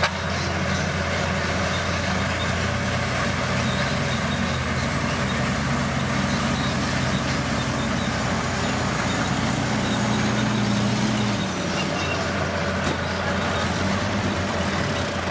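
Bulldozer's diesel engine running steadily under work, with a noisy mechanical clatter over it. The engine note drops about two-thirds of the way through.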